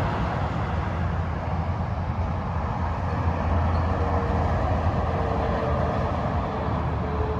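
Freeway traffic going by: a steady rush of tyre noise over a deep, continuous engine drone from passing heavy vehicles.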